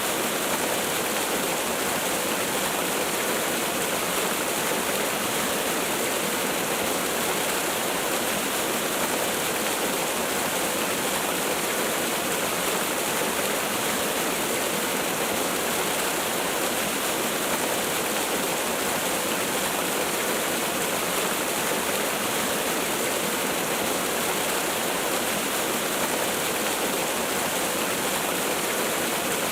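Waterfall: a steady, unbroken rush of falling water, hissy with little deep rumble.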